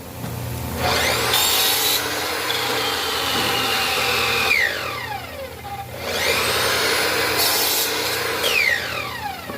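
A woodworking power tool working wood in two long passes over a steady machine hum, each pass ending in a whine that falls in pitch.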